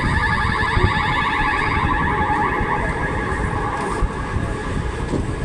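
Local passenger train running into a station: a low running rumble under a steady, high, rapidly warbling squeal.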